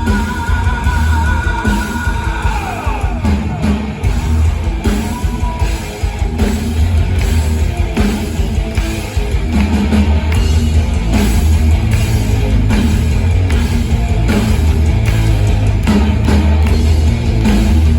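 Heavy metal band playing live, an instrumental passage with electric guitars, bass and drum kit. A held high note glides down about two seconds in, then the full band drives on with a steady beat.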